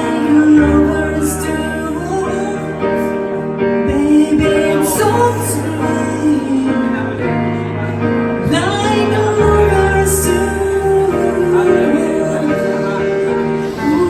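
A woman singing a slow ballad over sustained acoustic piano chords.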